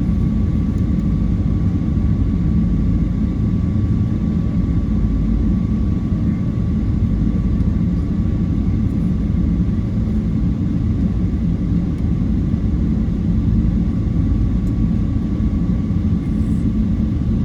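Airplane engine noise: a steady low rumble with a thin, even whine above it, holding at one level with no rise or fall.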